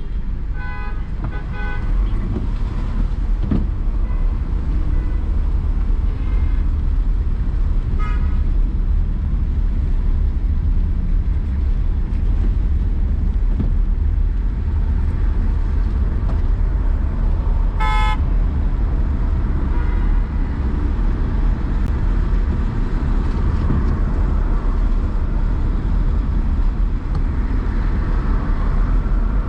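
Steady low road and engine rumble of driving in city traffic, with car horns tooting: two short toots about a second in, a faint one around eight seconds in, and a louder one around eighteen seconds in.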